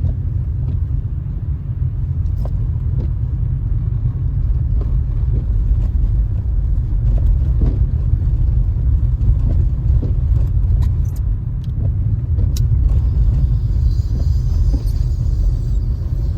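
A car driving on snow-covered road: a steady low rumble of engine and tyres, with scattered faint clicks.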